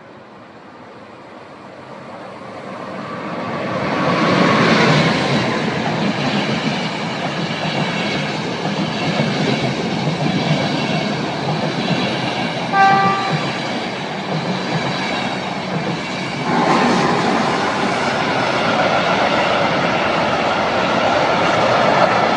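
An electric-hauled passenger train runs through the station close by, its rumble and wheel noise swelling over the first few seconds and staying loud as the coaches pass. A brief train horn toot sounds about 13 seconds in. About 16 seconds in the sound changes abruptly to a long freight train of open wagons rolling past.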